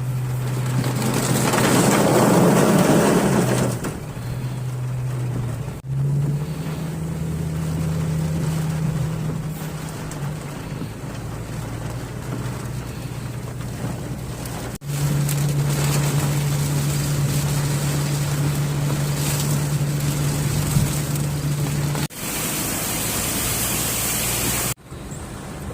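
Rain and street traffic: a steady wash of rain and water noise with vehicle engines humming underneath, in several short clips cut one after another.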